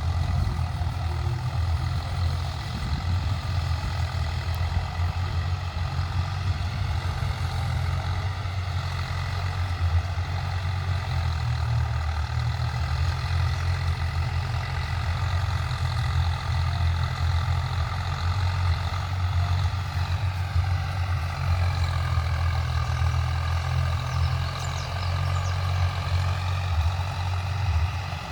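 Swaraj 744 FE 4WD tractor's three-cylinder diesel engine running steadily, its pitch dipping and then climbing again about two-thirds of the way through.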